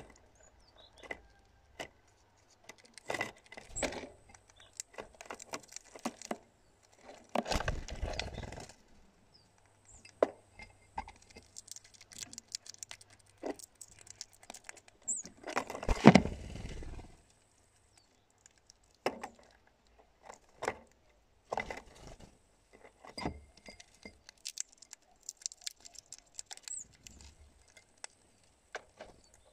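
Hawfinch at a glass cup: scattered sharp clicks and taps of its bill and claws against the glass, with two longer, louder rustles about a quarter and halfway through.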